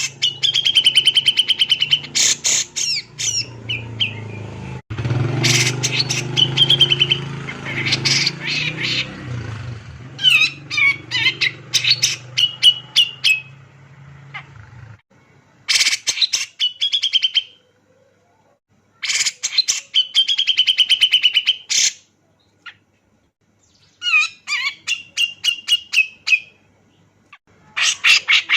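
Cucak jenggot (brown-cheeked bulbul) singing in loud, excited bursts: fast runs of sharp chattering notes, each phrase ending in a trill, repeated with short pauses. A low hum sits under the first half and stops about halfway through.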